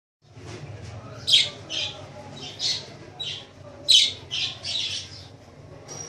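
Pet parrots squawking: a string of about ten short, harsh calls, the loudest about one and a half seconds in and again about four seconds in, over a low steady hum.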